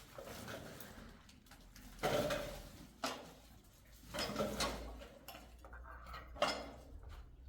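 Dishes and pots being handled, clattering and knocking against each other several times.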